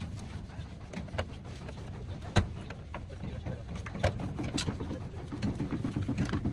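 A steady low rumble with scattered clicks and taps, and one sharp loud knock about two and a half seconds in.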